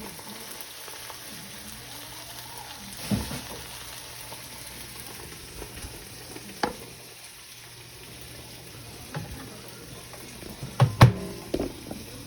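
Steaks sizzling in a frying pan, with a few scattered knocks and clinks. The loudest knocks come in a quick cluster about eleven seconds in.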